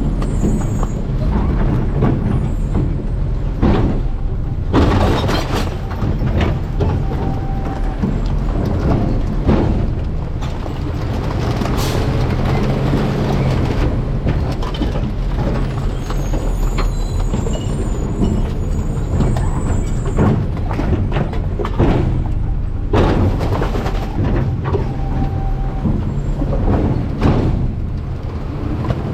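Garbage truck's diesel engine running under load while refuse is tipped and compacted in the hopper, with repeated knocks, bangs and crunches from the trash and the packer mechanism.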